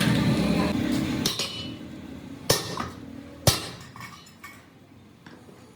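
Two sharp metallic clinks about a second apart, then a few faint taps, as metal tools and parts are struck or handled; a steady low engine-like hum fades out in the first second or so.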